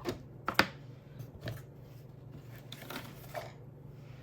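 Light clicks and knocks of a hard cast-resin box being handled and turned over, the loudest about half a second in. A steady low hum runs underneath.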